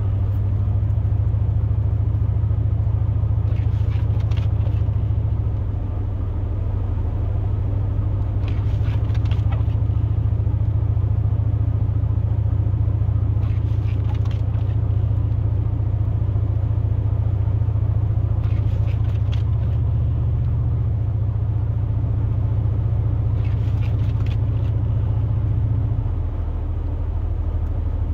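Steady low drone of a pickup truck driving, heard from inside the cab. A short burst of clicks repeats about every five seconds.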